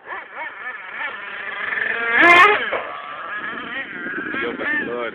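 Motocross bikes revving and changing pitch as they ride the track, several engines at once. One bike passes close a little over two seconds in, the loudest moment.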